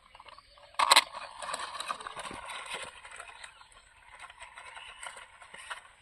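Small toy RC monster truck bumping over rough ground: a loud knock about a second in, then a couple of seconds of rattling and crunching that fades off.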